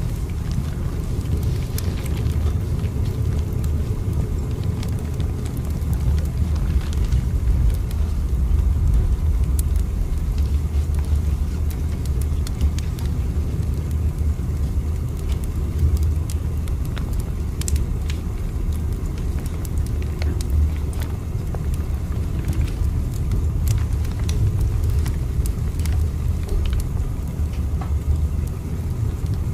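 Steady low rumble of a train running, with faint scattered clicks and crackles over it.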